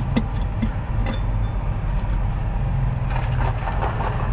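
Heavy truck's diesel engine idling steadily with a low rumble, with a few light metallic clicks about a second in.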